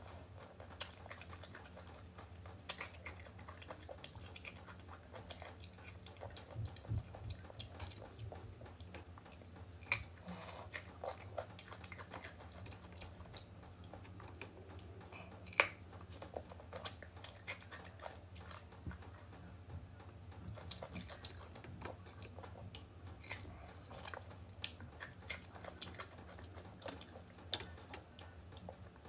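Close-up chewing and biting of crisp raw green mango slices: irregular crunches and mouth clicks, a few of them louder than the rest.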